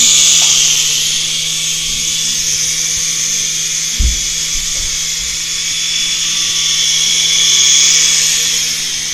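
Small electric RC toy helicopter's motor and rotor whining steadily at a high pitch, swelling and easing as it flies and loudest a little before the end. A single low thump about four seconds in.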